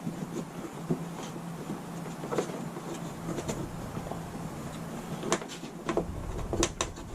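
Scattered light knocks and clicks of hand work on building materials, over a steady low hum; a low rumble comes in about six seconds in.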